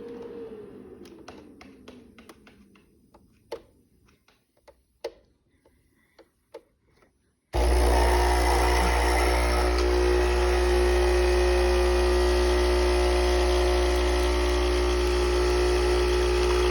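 A few light clicks from a capsule espresso machine being handled, then its pump starts suddenly about seven and a half seconds in and runs steadily with a low hum and a steady tone as the coffee brews.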